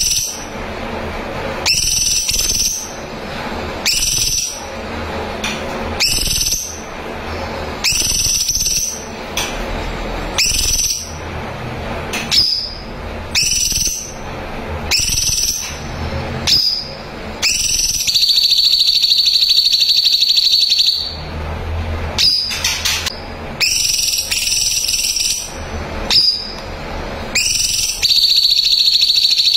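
Songbird calls: short, high whistled notes repeating about every two seconds, broken twice by a long rapid trill, one about two-thirds of the way in and one near the end.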